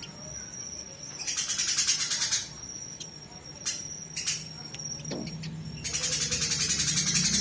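High, rapid chattering bird calls in several bursts, with a few sharp single chips in the quieter stretch between them.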